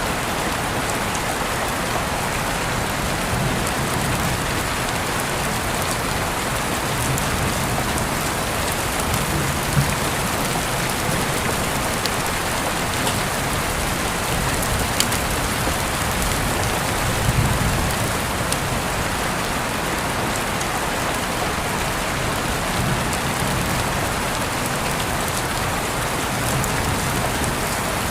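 Steady rain falling, with a few individual drops landing as sharper ticks.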